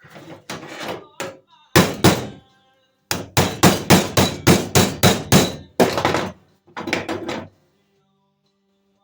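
Hammer blows bending a sheet-metal floor patch to a curve: a few light taps, two hard strikes, then a quick run of about nine blows at roughly three a second, and a few more near the end.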